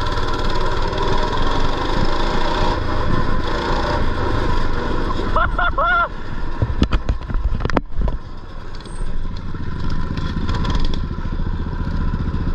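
Mini bike engine running as the bike is ridden, with a cluster of sharp knocks a little past the middle.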